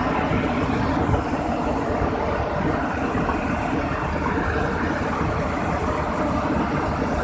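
Excavator's diesel engine running steadily, with no sudden knocks or impacts.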